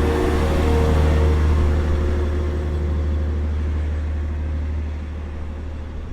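Diesel train running with a low engine drone and rumble, fading gradually as it draws away.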